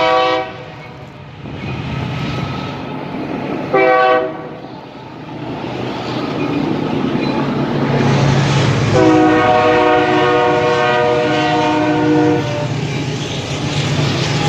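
Locomotive air horn sounding a chord of several notes. One blast cuts off just after the start, a short blast comes about four seconds in, and a long blast of about six seconds follows, the pattern of a grade-crossing signal. Under the horn, the passing train's rumble and clacking wheels grow louder.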